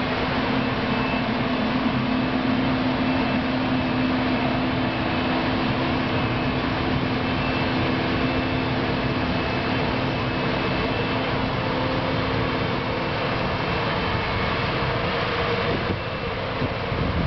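Claas Lexion 520 combine harvester running steadily, a continuous mechanical drone of engine and machinery. A steady low hum within it fades out about three-quarters of the way through.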